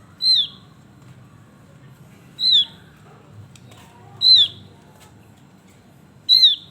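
Javan grey-throated white-eye (opior jawa) calling: four short, high, downward-slurred notes, evenly spaced about two seconds apart.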